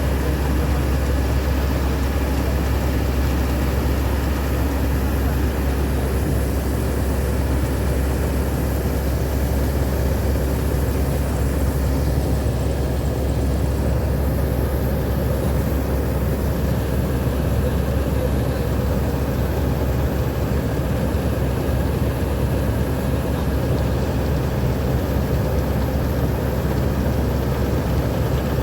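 Combine harvester's diesel engine running steadily with a deep, even drone.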